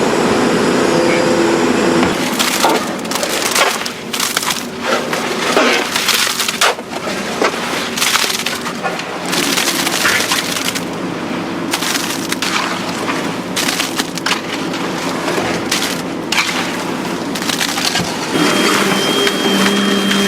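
Loud, irregular cracking and crunching of material breaking under heavy machinery, over the steady hum of a running engine that is clearest at the start and again near the end.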